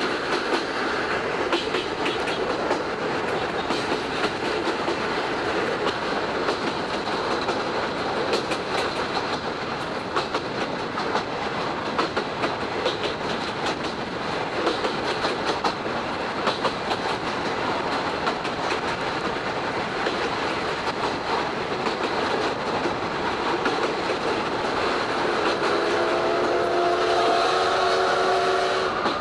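Vintage passenger coach behind a C58 steam locomotive running along the line, heard from inside the coach: steady running noise with the clickety-clack of the wheels over rail joints. From about 26 seconds in, the locomotive's steam whistle sounds one long held note.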